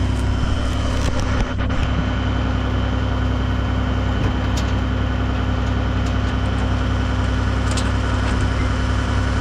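Tractor engine running steadily at working speed while pulling a round baler through the windrows, with a few light clicks from the machinery.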